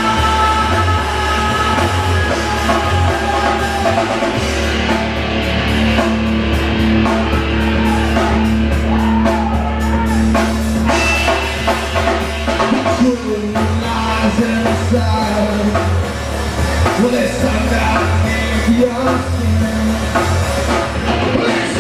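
Rock band playing live, loud and continuous, with a drum kit and a singer.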